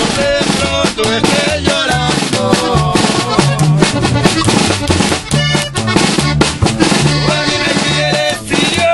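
Live instrumental music from a small band: an alternating bass line under a steady, driving beat.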